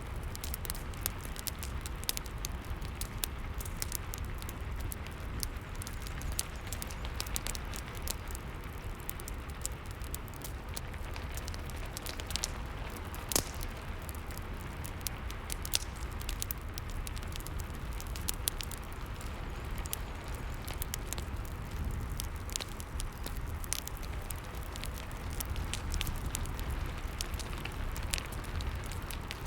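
Wood fire crackling with scattered sharp pops, over a steady hiss and low rumble of rain.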